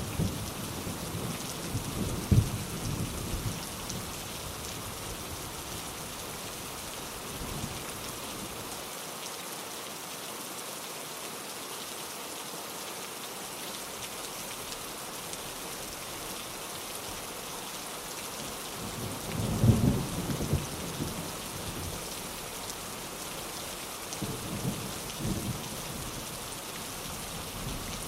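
Steady rain with low rolls of thunder: one near the start, the loudest about two-thirds of the way through, and a weaker one near the end.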